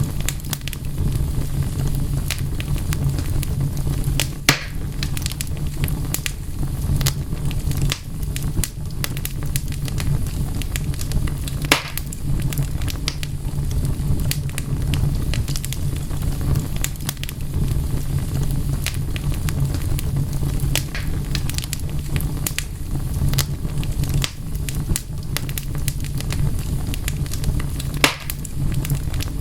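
Wood fire crackling steadily: dense small snaps over a low steady rumble, with a few louder sharp pops, about three in all.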